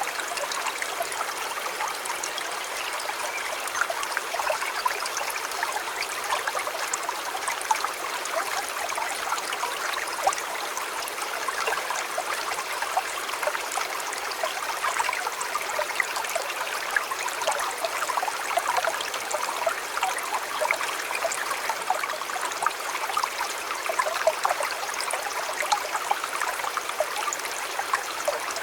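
A shallow river or stream flowing over stones: a steady babbling rush of water, full of small splashes and droplet ticks, with little low rumble.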